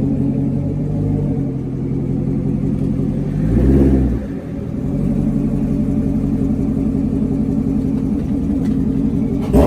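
C7 Corvette's V8 running through a freshly fitted straight-pipe exhaust, idling steadily. It gives one quick rev about three and a half seconds in and another at the very end.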